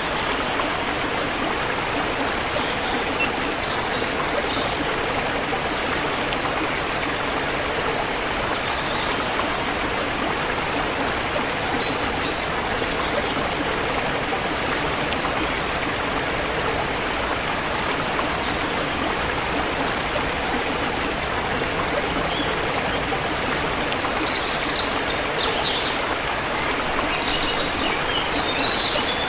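Forest river flowing steadily over rocks, with faint short bird chirps here and there, more of them near the end.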